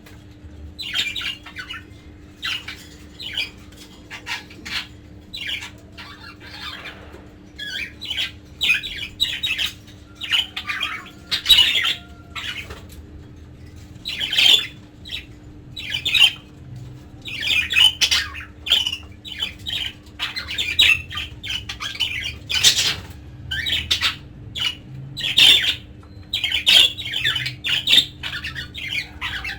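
Budgerigars calling: a dense run of short, scratchy calls that gets busier from about seven seconds in.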